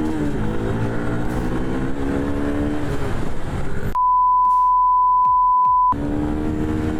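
Motorcycle engine running at a steady pitch. About four seconds in, a loud, high, steady censor bleep replaces it for about two seconds, and then the engine carries on.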